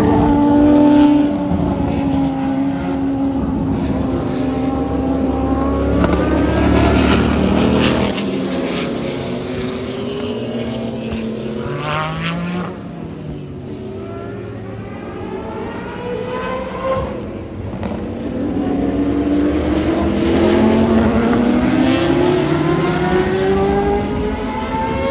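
Several historic prototype race cars driving past one after another, their engines revving, each one's pitch rising and falling as it passes; the sound dips in the middle and swells again as more cars come by.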